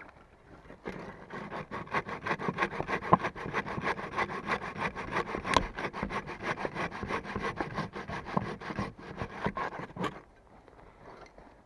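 Hand saw cutting through wood with quick, even rasping strokes. It starts about a second in and stops abruptly near the end.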